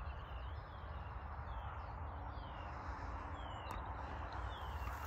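A small bird calling in a series of short, downward-sliding chirps, about two a second, over a steady low background rumble.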